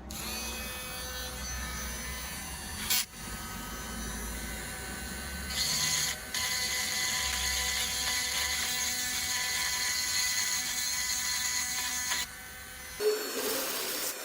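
A small electric power tool running with a steady whine, which grows louder and hissier about halfway through. It stops near the end and gives way to a rough scraping rub.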